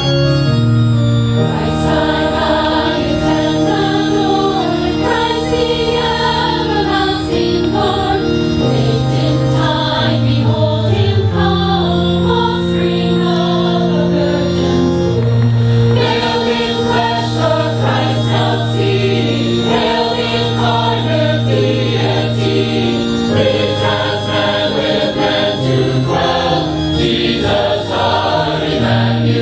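Choir singing with instrumental accompaniment, held low bass notes under moving vocal parts.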